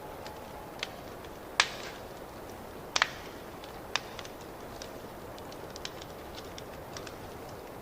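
Fireplace wood fire crackling: a steady soft hiss of flames with irregular sharp pops and ticks. The loudest pops come about a second and a half in, as a close pair around three seconds in, and at about four seconds.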